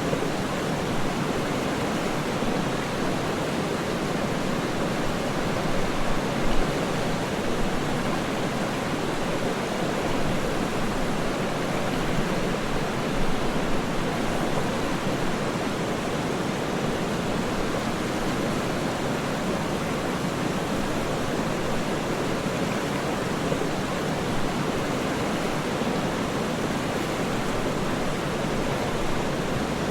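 Waterfall, a steady rushing of falling water with only slight rises and falls in level.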